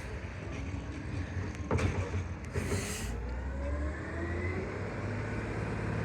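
McNeillus Zero Radius automated side-loader garbage truck running while it works a pickup. Its engine and hydraulics rise slowly in pitch during the second half, with a knock and a short hiss a couple of seconds in.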